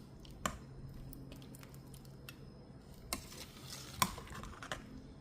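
A utensil clinking a few times against cookware, with a short soft stirring sound of liquid about three seconds in; the sharpest clink comes about four seconds in.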